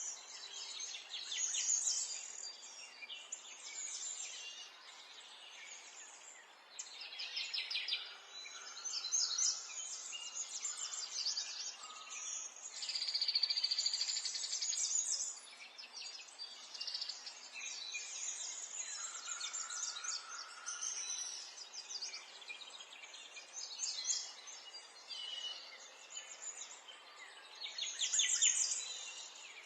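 Several songbirds singing and chirping in overlapping phrases and trills over a steady background hiss.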